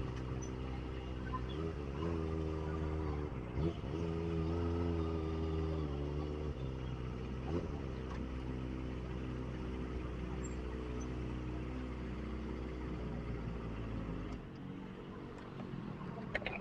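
Kawasaki ZX25R's 250 cc inline-four engine running at low revs, with short throttle changes around two to four seconds and again near seven and a half seconds. About fourteen seconds in, the deepest part of its sound drops away and it goes quieter.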